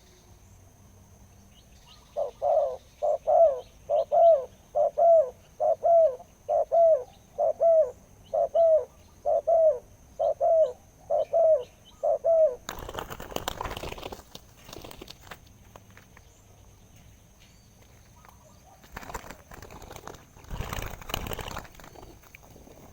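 Spotted dove cooing: a run of about a dozen deep, evenly spaced coos, each a little under a second apart. Then two spells of rustling noise follow.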